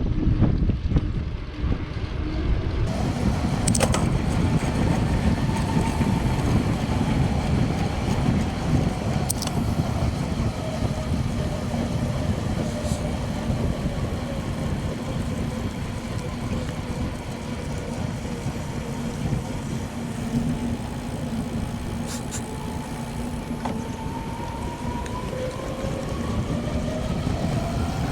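Bicycle riding: wind rushing over the microphone and tyres rolling on the paved road. A faint hum slowly falls and then rises in pitch, with a few light clicks.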